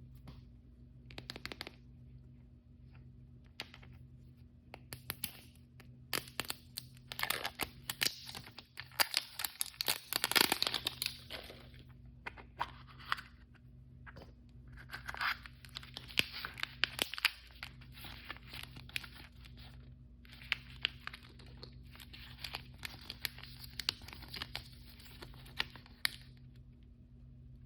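Blind-bag packaging being torn open and crinkled by hand: scattered small clicks and rustles at first, then several long stretches of dense crackling as the wrapper is torn and crumpled.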